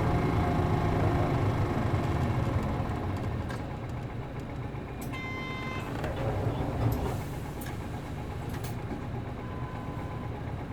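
City bus's MD92TJ diesel engine running, heard from inside the bus; the engine note falls away over the first few seconds. A short electronic beep sounds about five seconds in, and there are a few light clicks.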